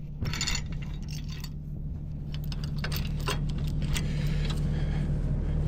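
Diesel engine of a Kubota SVL75-2 compact track loader running steadily and slowly building toward a heavier load, with scattered sharp metallic clicks and rattles on top.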